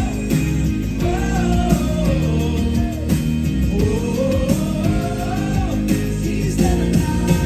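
Gospel vocal group singing with full band accompaniment. The voices hold long, gliding notes over a steady band.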